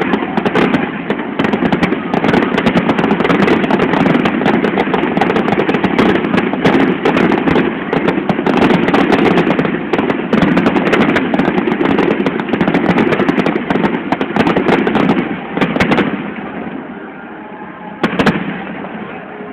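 Fireworks display: a dense, loud run of crackling pops and bursts that thins out and fades about sixteen seconds in, followed by a couple of sharp bangs near the end.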